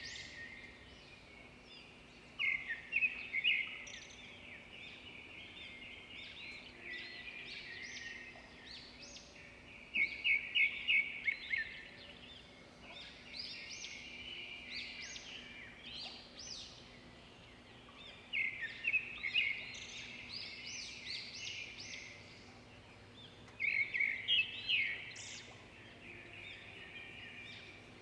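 Swiftlets twittering: rapid, high chirping trills that swell into louder clusters every several seconds. A faint steady hum runs underneath.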